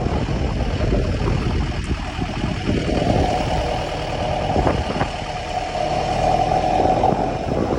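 A motor vehicle's engine running steadily, with road or travel noise.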